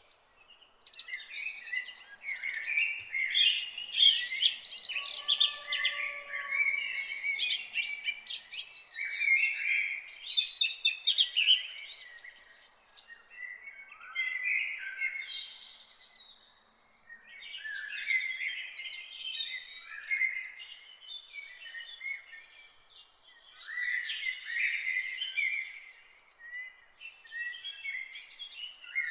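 Several songbirds singing and chirping together, overlapping trills and chirps coming in waves with short lulls between, over a thin steady high tone.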